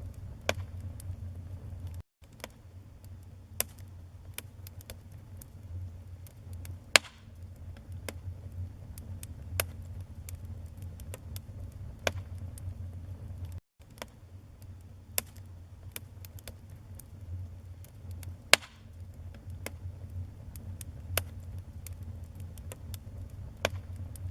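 Wood fire burning in a fireplace: irregular sharp crackles and pops of the burning logs over a steady low rumble of the flames. Two louder pops come about seven seconds and about eighteen seconds in, and the sound cuts out for an instant twice.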